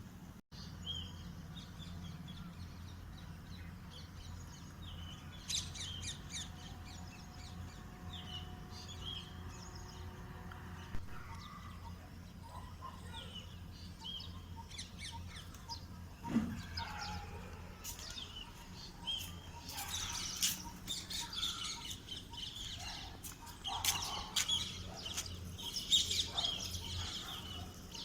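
Small birds chirping and calling: scattered chirps at first, growing busier and louder in the second half.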